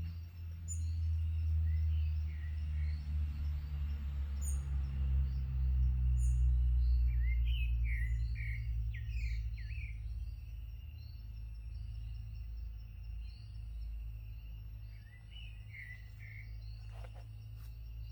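Forest birds calling: scattered short chirps and quick runs of notes in clusters, with a few thin high notes, over a steady insect hum. A low rumble underneath is the loudest part, heaviest in the first half.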